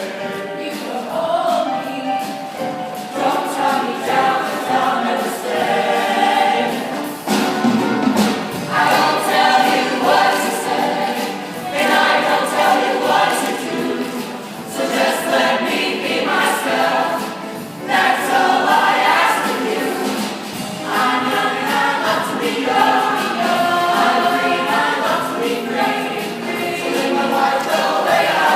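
Show choir singing, many voices together in a continuous sung passage.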